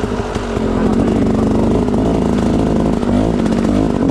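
Enduro dirt bike engine running on a trail ride, its pitch rising about three seconds in as it revs up.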